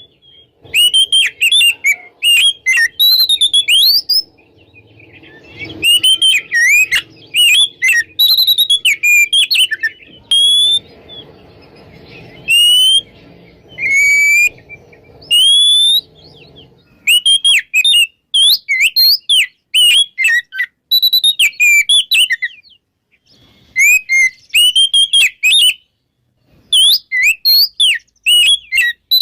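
Oriental magpie-robin (kacer) singing a loud, clear song of rapid, varied whistled phrases with sliding notes, in bursts broken by short pauses.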